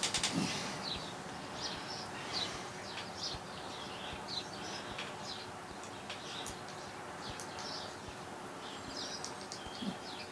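Birds chirping in the background, many short high calls scattered throughout.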